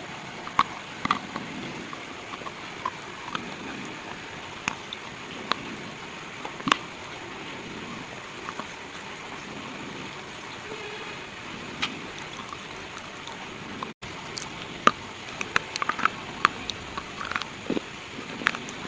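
Pieces of slate crunching and snapping: scattered sharp cracks over a steady hiss. The cracks come thicker after a momentary cut about 14 seconds in.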